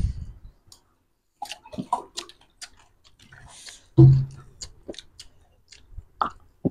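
Close-miked chewing of crunchy street snacks (panipuri and chatpate): irregular crunches and wet smacks, with one louder low thump about four seconds in.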